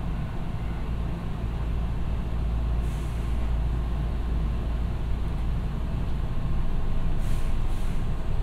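Running noise heard from inside a Hankyu 7000 series commuter train: a steady low rumble of wheels and running gear that grows slightly louder toward the end. Brief hisses come about three seconds in and again near the end.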